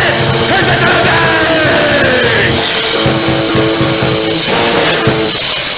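Loud rock music with a drum kit and sustained chords; about half a second in, one note slides down in pitch over some two seconds.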